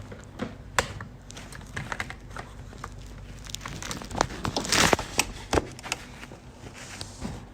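Crinkling and rustling handling noise with scattered sharp clicks, loudest in a dense rustle just before five seconds in.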